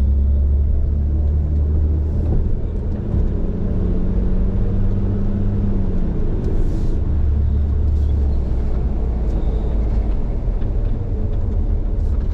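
Snow-plowing vehicle's engine running with a steady low rumble.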